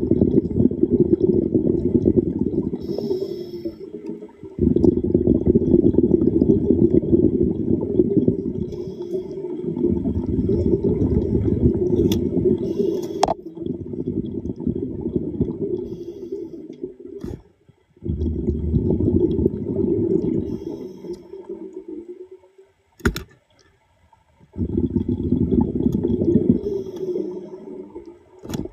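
Underwater rumble of a diver's exhaled breath bubbling out of a breathing regulator. It comes in bursts of several seconds, separated by short pauses with a faint hiss of inhaling and a few sharp clicks.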